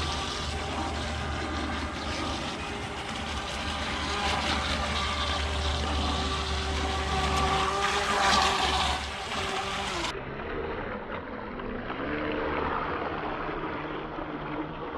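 Small RC hydroplane boat running on its stock brushed electric motor: a steady whine with water hiss as it skims. The sound turns duller about ten seconds in, and the whine then rises and falls with the throttle.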